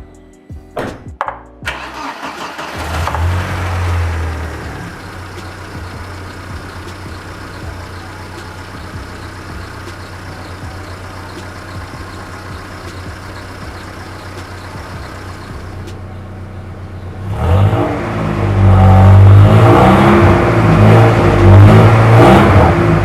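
Opel Blazer engine and exhaust starting up cold for a morning warm-up. It catches about two seconds in, flares louder for a couple of seconds, and settles to a steady idle. From about seventeen seconds in it is revved much louder through the exhaust.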